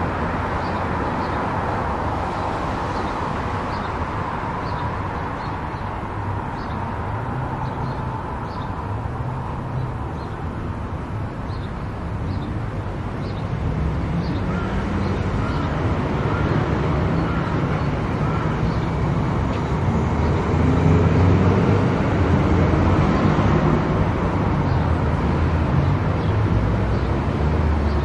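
Car driving on a highway: steady road and tyre noise with a low engine rumble, growing louder about halfway through. A faint, evenly spaced ticking runs through the first half and comes back near the end.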